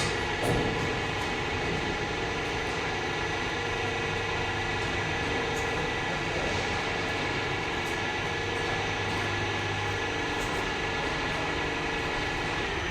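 Diamond wire saw machine running steadily, a dense even mechanical drone with a brief knock about half a second in.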